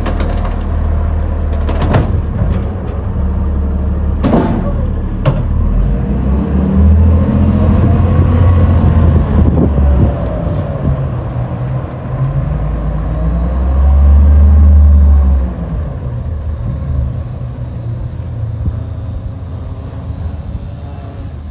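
Garbage truck's diesel engine rumbling, its revs rising and falling twice as it powers the hydraulics, with a few sharp knocks in the first few seconds.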